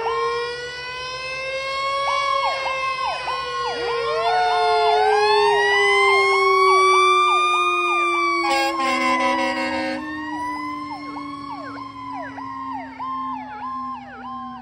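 Fire engine sirens: a low siren tone rising, then slowly winding down, under electronic sirens wailing and yelping fast. An air horn blasts for about a second and a half roughly nine seconds in, and the sirens fade somewhat toward the end.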